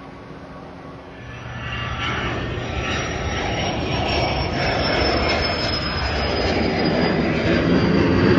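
Aircraft engine noise growing louder as a plane approaches, with a high whine that slowly falls in pitch over a broad rumble. The noise rises about a second in.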